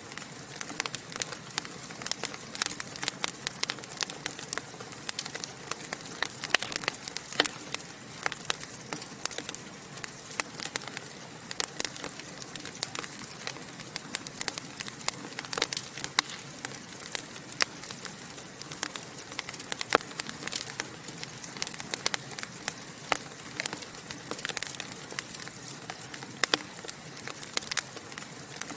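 Wood fire in a fireplace crackling, with frequent sharp pops at irregular intervals over a steady hiss.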